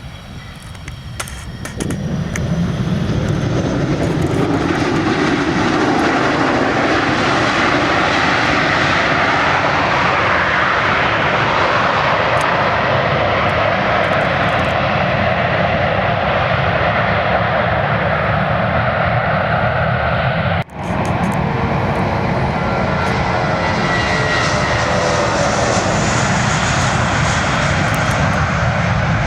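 Jet airliner engines running loud. The sound builds quickly over the first two seconds, then holds steady, with one brief sharp dropout about two-thirds of the way through.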